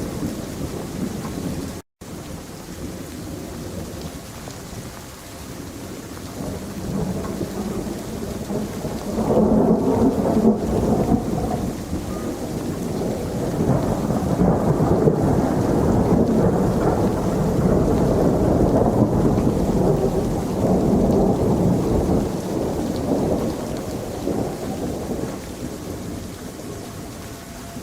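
Steady rain with rolling thunder that swells about nine seconds in, rumbles on loudly for some fifteen seconds, then slowly dies away. The sound drops out for an instant about two seconds in.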